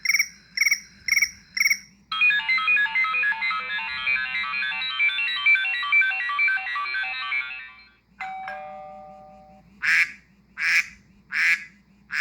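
iPhone ringtones played back one after another: a repeating electronic chirp for the first two seconds, then a fast electronic melody of many short notes, a falling two-note doorbell chime, and a duck ringtone of four quacks.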